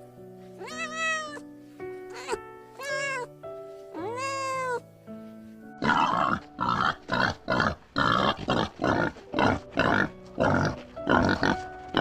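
Animal calls over background music: drawn-out calls that rise and fall in pitch against held musical notes, then from about halfway a rapid run of short, harsh calls, roughly two a second.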